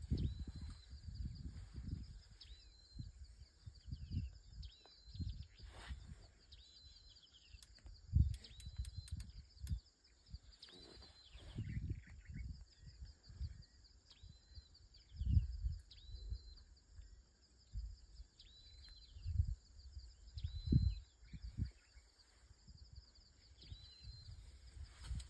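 A bird repeats a short high whistled call about every two seconds over a steady high hiss. Irregular low gusts of wind buffet the microphone and are the loudest sound.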